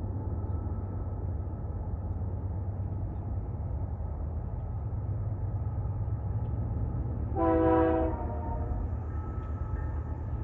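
Diesel freight train approaching from a distance with a steady low rumble, and about seven seconds in one short blast of the locomotive's multi-tone air horn.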